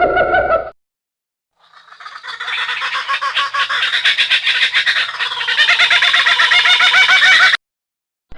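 The end of a horse's whinny, then after a short silence a dense chorus of many birds calling at once. The calls are short and rapidly repeated, overlapping; the chorus fades in and cuts off abruptly near the end.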